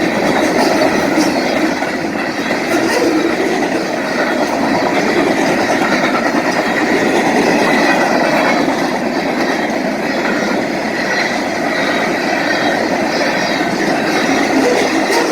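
Freight train's cars passing at speed, about 55 to 60 miles an hour: a steady rush and rumble of steel wheels on rail with faint clicking.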